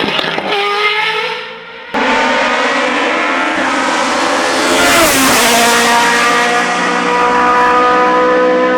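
Hillclimb racing car engines at high revs, heard in two clips. About two seconds in, the fading first engine is cut off and a second engine comes in loud; about five seconds in its pitch drops steeply, then holds high and steady.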